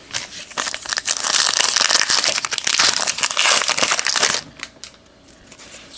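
A trading card pack wrapper crinkling and crackling as it is handled and torn open, a dense stretch of crackle lasting about four seconds that stops about four and a half seconds in.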